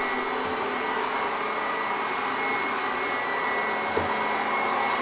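Commercial Sanitaire upright vacuum running steadily on carpeted stairs, its motor giving a constant rushing of air with a steady high whine. A small knock about four seconds in.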